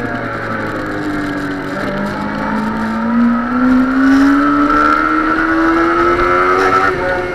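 Suzuki sport bike's engine heard from on board with wind rush. Its note falls for about two seconds as the bike slows, then climbs steadily as it accelerates through a bend, with a brief drop near the end.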